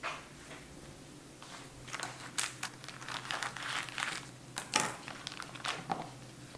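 Plastic packaging crinkling and rustling as it is handled, in short irregular bursts starting about two seconds in, typical of unwrapping a wedge of cheese.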